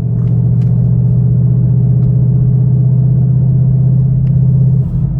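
2019 Mustang GT's 5.0-litre V8, running on an E85 tune with an aftermarket intake, holding a steady rpm with a loud, even drone from inside the cabin.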